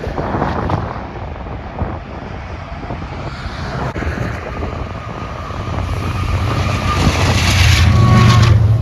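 Norfolk Southern intermodal train passing, led by GE diesel locomotives, with a deep steady engine drone that grows louder over the last few seconds.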